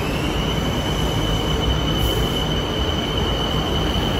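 Bangkok BTS Skytrain electric train running along the platform: a steady rumbling rail noise with a high whine on top that glides up briefly at the start.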